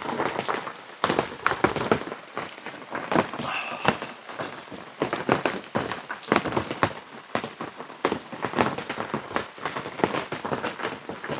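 Steady rain falling on a fabric awning overhead, with many irregular drops ticking on it.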